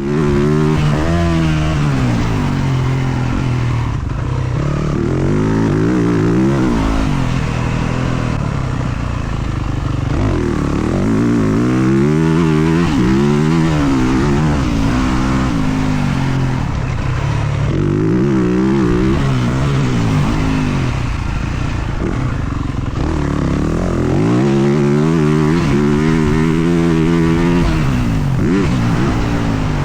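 Motocross dirt bike engine revving up and backing off again and again, its pitch climbing and dropping in long sweeps several times as the rider twists the throttle and shuts it.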